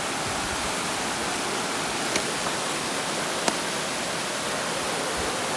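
Swollen mountain brook rushing over rocks and small waterfalls, a steady hiss of running water, high after rain. A couple of faint clicks about two and three and a half seconds in.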